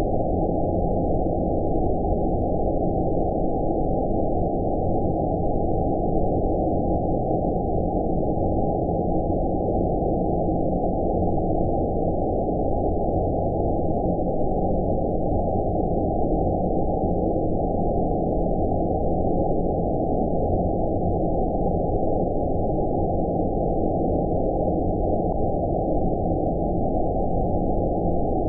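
Steady 'space noise' sleep sound: an even, deep rushing noise with everything above about 1 kHz cut away, unchanging throughout.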